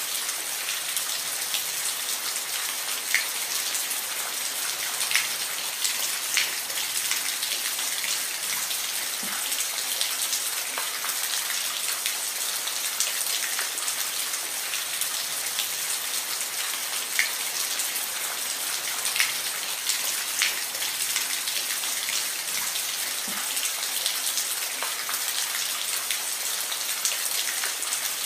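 Steady rain falling, a dense even hiss with individual drops pattering and ticking on a nearby surface.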